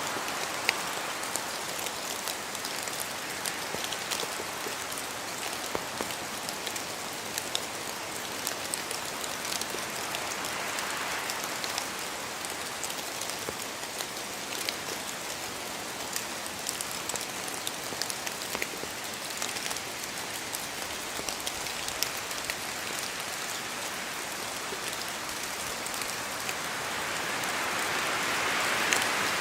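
Steady rain in a forest, with many separate drops tapping as they fall from the trees. The hiss swells briefly near the end.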